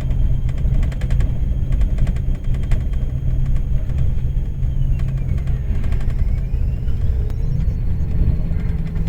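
Steady low vehicle rumble, with a faint high whine that falls in pitch and rises again about five to eight seconds in.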